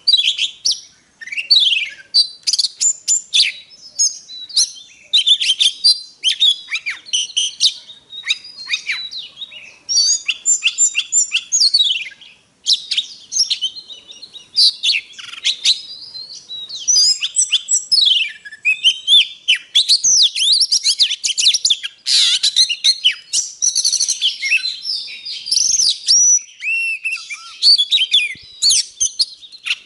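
Oriental magpie-robin singing a long, varied song of rapid whistles, sweeping notes and trills, almost without pause, broken only by a brief gap near the middle.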